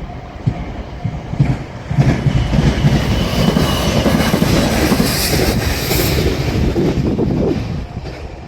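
An electric passenger train passing through a level crossing, its wheels knocking over the rail joints. The sound swells sharply about two seconds in and eases off near the end.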